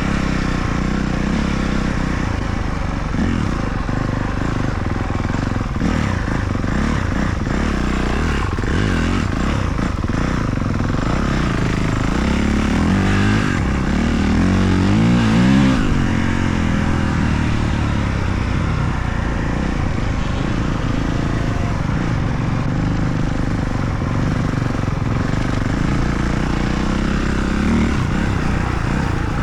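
Motocross bike engine revving hard and easing off again and again, its pitch rising and falling with the throttle as the bike is ridden around the track.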